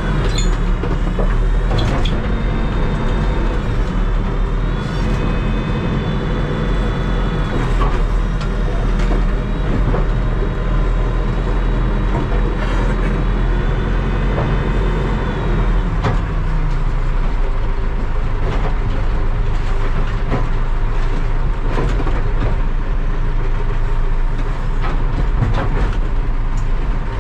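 Terex TLB-815 backhoe loader's diesel engine running hard under hydraulic load while the loader works. Its pitch is raised for the first half, then drops about halfway through, with scattered knocks throughout.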